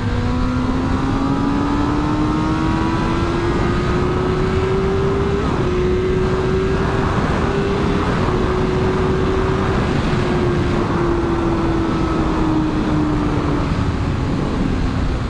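Honda CBR600RR inline-four sport bike engine pulling hard under acceleration: its pitch climbs steadily for about five seconds, holds high with a couple of brief breaks, then slowly falls as the throttle eases, over steady wind rumble.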